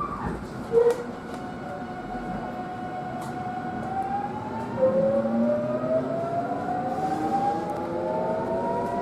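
Electric train's traction motors whining as it pulls away, several tones rising slowly in pitch as it accelerates, with a short loud tone just under a second in.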